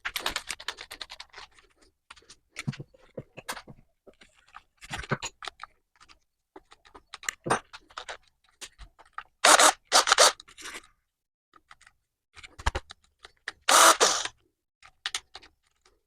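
Metal tools being handled: a run of irregular scrapes and clinks, with louder scraping bursts about ten seconds in and again near fourteen seconds, typical of sorting through and changing drill bits.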